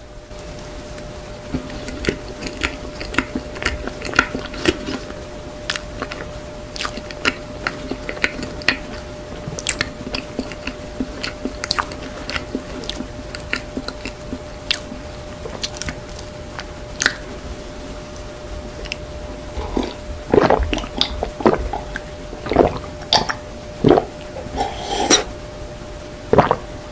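Close-miked chewing of soft chocolate ganache layer cake, with wet mouth clicks and squishes coming steadily. Near the end comes a run of louder swallows as milk is drunk.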